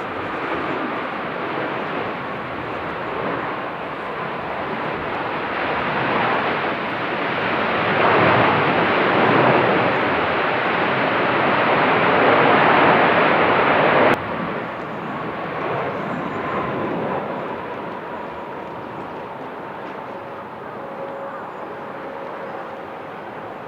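Jet aircraft engines running, a steady roar with a faint whine that slowly falls in pitch. It swells to its loudest in the middle, drops suddenly about fourteen seconds in, and fades slowly after that.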